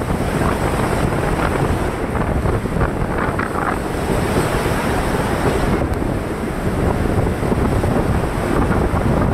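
Wind rushing over the microphone at the open door of a moving passenger train, over the steady rumble of the train running on the track.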